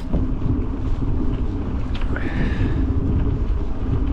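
Strong wind buffeting the bike-mounted camera's microphone, a heavy steady rumble, with a brief higher-pitched sound about halfway through.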